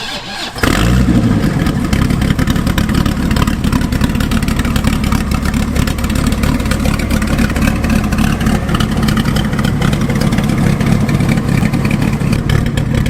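Dodge Viper V10 engine firing up about half a second in, then running steadily and loudly.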